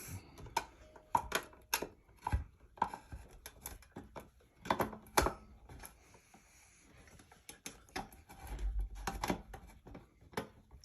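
Irregular clicks and knocks of metal parts being handled as an old ceiling fan's motor is worked loose from its ceiling mount, with a low rumble near the end.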